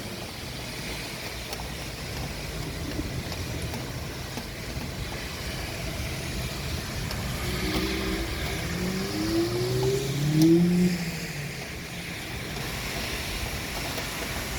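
Steady outdoor noise with a motor vehicle going by, its engine note rising in pitch about halfway through and loudest about ten seconds in.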